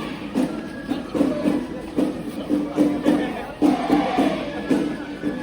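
Japanese festival music: drums and metal percussion struck in a steady beat, about two to three strokes a second, with a crowd chanting and shouting.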